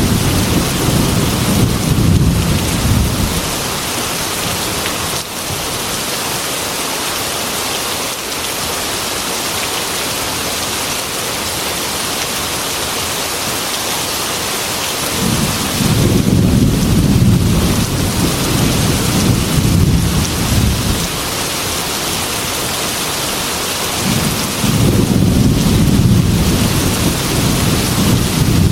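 Heavy rain falling as a steady hiss, with deep rolls of thunder rumbling three times: at the start, for several seconds just past halfway, and again near the end.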